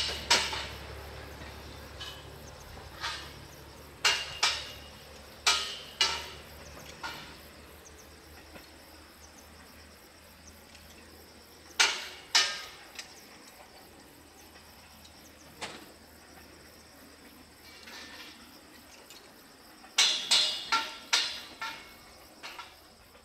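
A JR East HB-E300 series diesel-hybrid railcar's low engine drone fading away as it pulls off. A run of sharp clacks is scattered through, with a quick cluster of them near the end. A faint, steady, high insect trill runs underneath.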